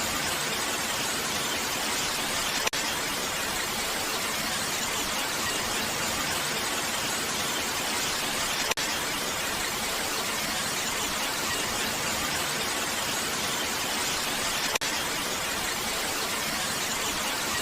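Steady rain, a dense, even hiss with no letup. Three brief clicks cut through it about six seconds apart.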